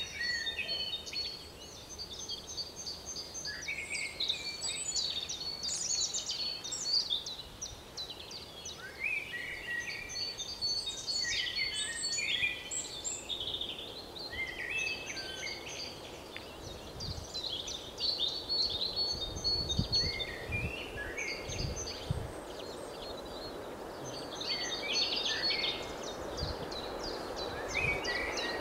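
Several songbirds singing in short repeated chirping phrases over a steady outdoor background rush, which grows louder toward the end.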